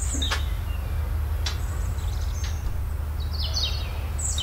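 Small birds chirping, with a quick run of short falling chirps near the end. Under them runs a steady low rumble, with a few faint clicks.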